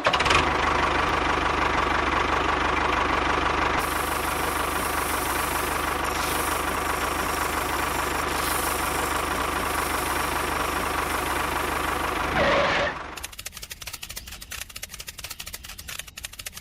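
Small motor of a DIY miniature tractor model running steadily. It cuts out about thirteen seconds in, leaving a quieter, fast clicking.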